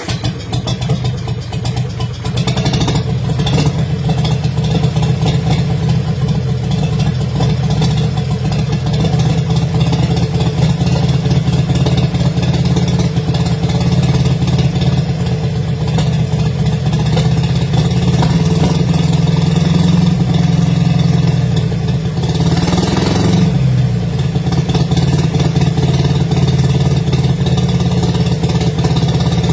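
Old Bedford truck engine running steadily, with a brief rev about three quarters of the way through.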